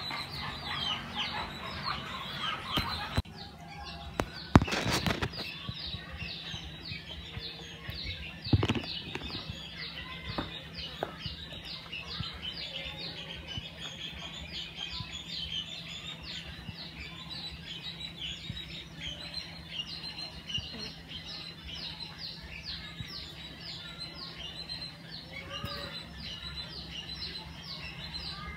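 Birds chirping steadily in quick, repeated falling notes, several a second, over a steady low hum. A sharp knock comes about four and a half seconds in, the loudest sound, and a smaller one a few seconds later.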